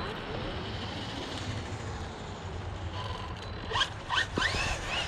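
Electric motor of a Hobao Hyper VS2 RC buggy whining in a few quick throttle blips about four seconds in, each a short rise and fall in pitch, over steady outdoor background noise.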